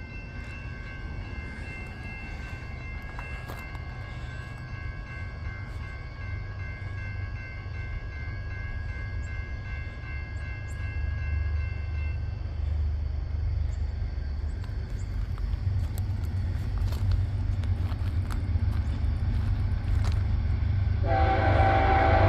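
Approaching CSX freight train: a distant locomotive horn holds one long chord for about twelve seconds while the low rumble of the train grows steadily louder. About a second before the end, a much louder horn blast starts as the train nears.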